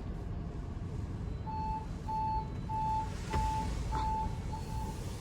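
Electronic beeper sounding a row of short, even beeps at one pitch, about one every 0.6 seconds, starting about a second and a half in, over a low steady rumble. Two brief clicks fall among the later beeps.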